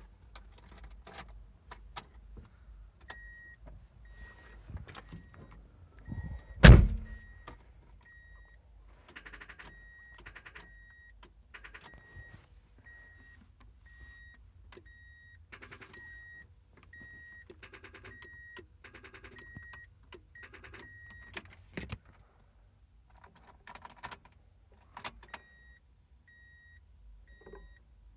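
2000 Mazda Miata's electrical system misbehaving in a no-start condition, after a blown 15A engine fuse was replaced. A warning chime beeps over and over, a little under twice a second, with scattered clicks and short buzzing bursts. One loud clunk comes about a quarter of the way in.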